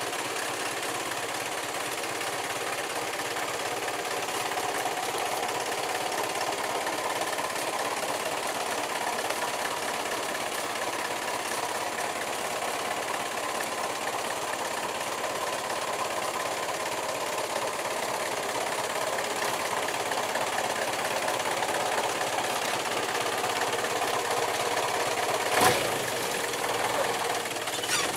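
Truck engine running steadily, with a single sharp knock near the end.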